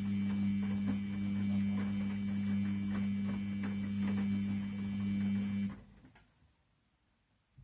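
Washing machine motor humming steadily as the drum turns, with faint irregular clicks, then stopping abruptly about six seconds in.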